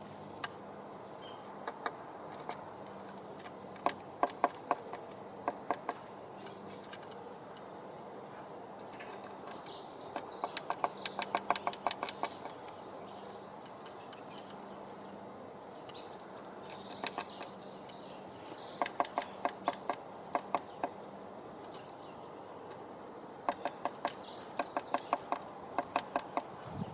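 Small birds singing in short, high, twittering phrases several times, with bursts of rapid sharp ticking or tapping in between, over a faint steady low hum.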